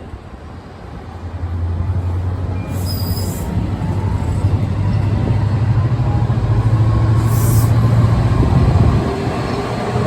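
Diesel-hauled freight train passing, a steady low rumble that grows louder over the first two seconds, with two brief high-pitched sounds about three and seven seconds in.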